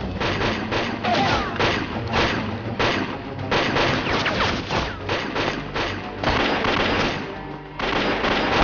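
Bursts of rapid gunfire, shots following each other several times a second, with a few falling whizzes, over a dramatic film score; the firing drops off briefly near the end.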